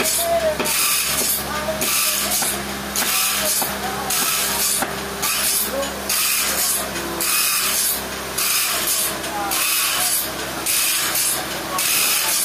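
A rhythmic hissing scrape repeating about once a second over the steady hum of sawmill machinery.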